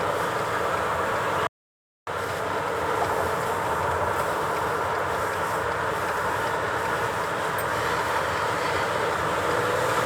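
Steady road and engine noise inside a moving car's cabin. The sound cuts out completely for about half a second, a second and a half in.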